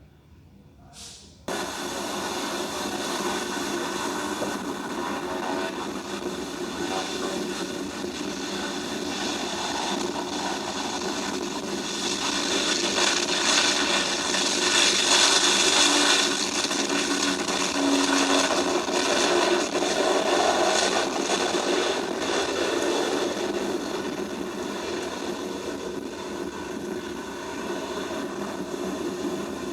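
Jet airliner's engines passing close by: a loud rushing roar with steady whining tones that cuts in abruptly, swells to a peak about halfway through, then slowly fades.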